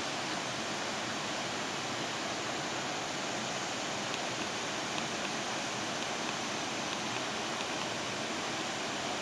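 Steady rush of a waterfall in flood, swollen far above its usual flow by days of typhoon rain.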